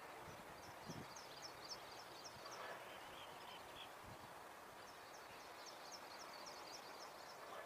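Faint outdoor ambience with a small bird giving two runs of quick, high chirps, about four a second.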